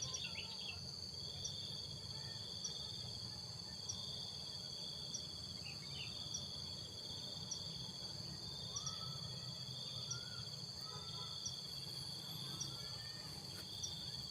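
Crickets and other insects singing: a steady high-pitched drone with a pulsing trill that repeats in phrases about a second long, and a faint tick recurring roughly every second. Faint short bird calls come in now and then over a low background rumble.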